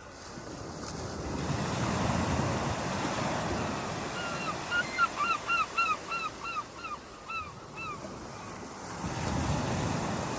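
Waves washing onto a shore, the surge swelling up twice. In the middle a bird calls a quick run of about a dozen short, hooked notes, about three a second.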